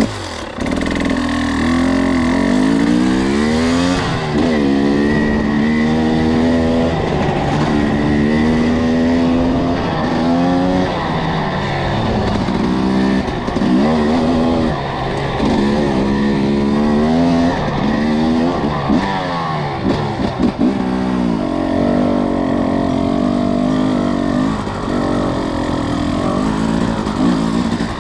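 Two-stroke enduro dirt bike engine under way, its revs climbing and dropping back over and over as the rider works the throttle and gears.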